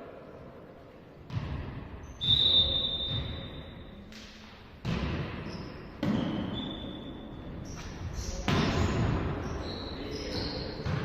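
Volleyball rally echoing in a sports hall: the ball is struck sharply about five times, with sneakers squeaking on the court floor between hits.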